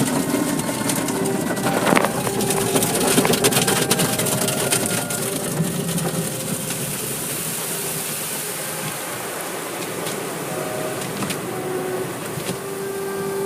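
Automatic car wash working over the car, heard from inside the cabin: a loud, steady rush of wash machinery and spray with a fine clatter in the first few seconds, easing a little in the second half.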